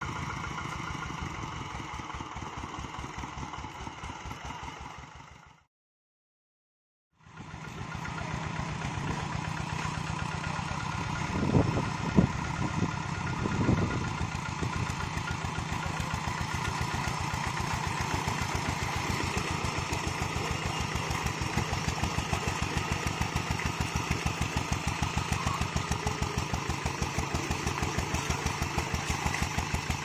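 Single-cylinder diesel engine of a two-wheel hand tractor running steadily with an even chugging beat. A few louder knocks come around twelve to fourteen seconds in. The sound cuts out completely for about a second and a half near six seconds.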